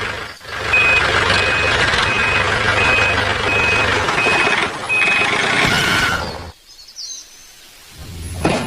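Reversing beeper sounding seven short beeps at one pitch, one every 0.7 seconds or so, over a steady engine-like running noise. The running noise cuts off abruptly about six and a half seconds in.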